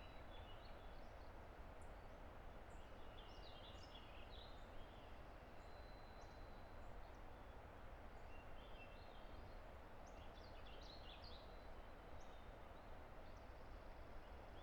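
Faint, steady rush of a distant river, with songbirds singing bursts of high chirping phrases over it, in two spells a few seconds apart.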